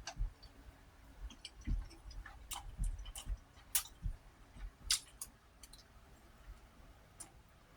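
Someone eating rice mixed with fried eggs: irregular light clicks and taps with soft chewing.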